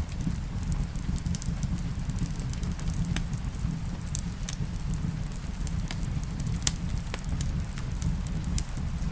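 Wood fire in a fireplace crackling, with irregular sharp pops over a steady low rumble. Rain falls in the background.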